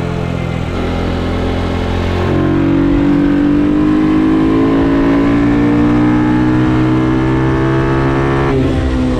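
Ohvale GP2 minimoto's single-cylinder four-stroke engine, heard onboard at a go-kart track. About two seconds in the throttle opens and the engine note climbs slowly and steadily under hard acceleration. Near the end the throttle closes and the pitch drops as the bike slows for a corner.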